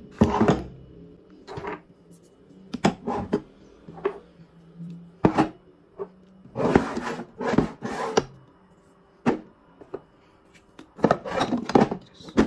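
Food-storage containers being set down and slid into a kitchen drawer: a series of irregular knocks and scrapes.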